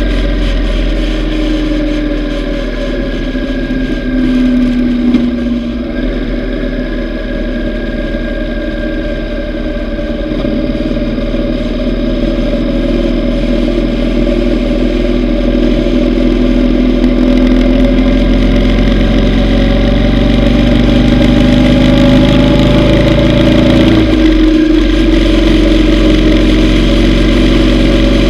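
Yamaha V Star 950's air-cooled V-twin running under way on the road, its engine note drifting up and down with the throttle, with a brief dip about three-quarters of the way through before it climbs again. A steady low rush lies under the engine.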